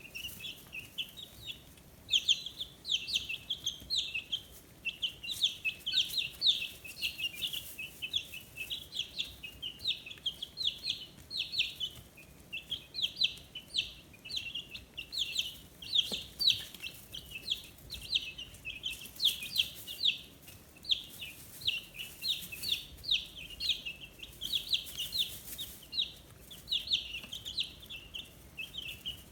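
A brood of 15-day-old chicks peeping continuously, many short high-pitched peeps overlapping one another without a break.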